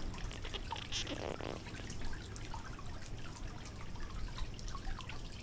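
Water trickling and splashing in small, irregular drips and splashes, with a brief louder rush about a second in.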